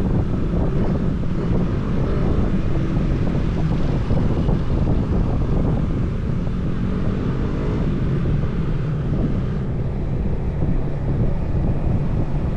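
Wind buffeting the microphone on a moving motorcycle, with the motorcycle's engine running underneath; the engine note shifts a little in pitch around the middle.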